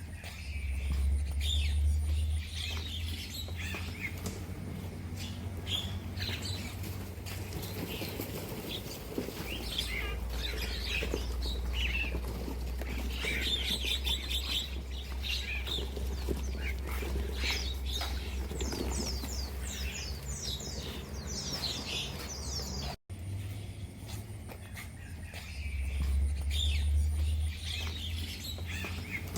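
Many small birds chirping and twittering together, a dense chatter of short high calls, over a steady low hum. The sound drops out for an instant near the end.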